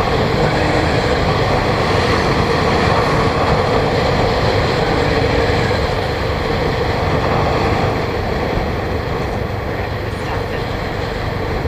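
Motorbike running steadily on the move, its engine and road noise continuous, easing off slightly about two-thirds of the way through.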